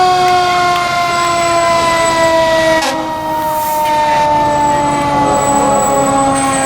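Fire truck siren holding a long tone that slides slowly down in pitch as it winds down, with fainter sirens wavering behind it. A single sharp knock comes about three seconds in.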